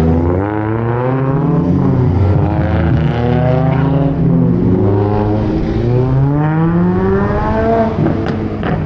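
A car engine accelerating hard up through the gears. Its pitch climbs, then drops at each shift, about four times in a row.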